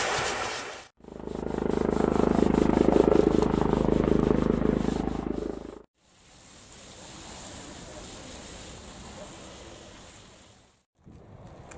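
Car interior cleaning equipment in three edited clips. A hiss cuts off just before a second in. A machine then runs with a steady hum and a scrubbing noise for about five seconds, followed by a quieter steady rushing noise.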